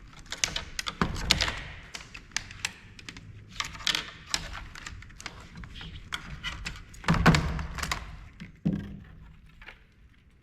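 Irregular clicks, taps and knocks of plastic parts and small circuit boards being handled and pulled apart during a monitor teardown, with a heavier thunk about seven seconds in.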